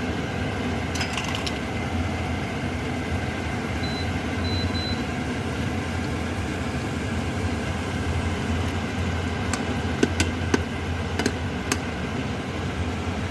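Mushrooms sizzling as they fry lightly in hot oil in a pan, over a steady low hum, with a few light clicks about a second in and again near the end.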